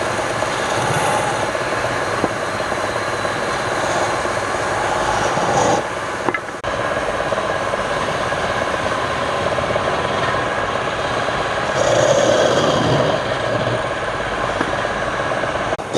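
Wood lathe running, with a turning tool scraping and cutting the spinning wood in a steady rasp that drops out briefly about six and a half seconds in.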